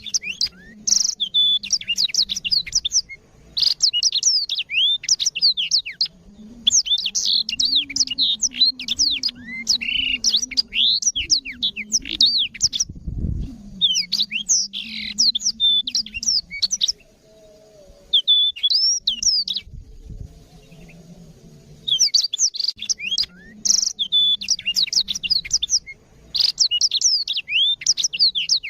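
Black-throated canary (blackthroat) singing long bursts of rapid, high chirps and trills, with short pauses between phrases. A faint low hum runs underneath, and a single low thump comes about halfway through.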